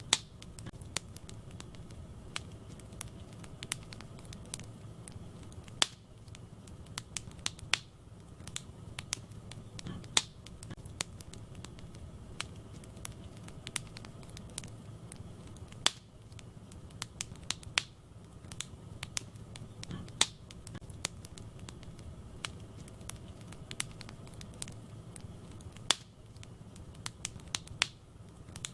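Wood fire crackling in a fireplace: frequent sharp snaps and pops, a few of them loud, over a steady low rumble of burning.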